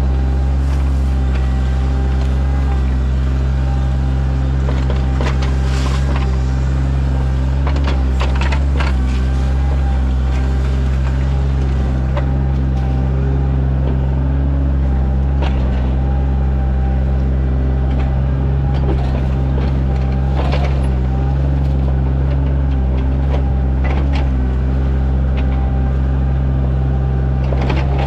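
Sany mini excavator's diesel engine running steadily under work, with a few sharp clacks scattered through.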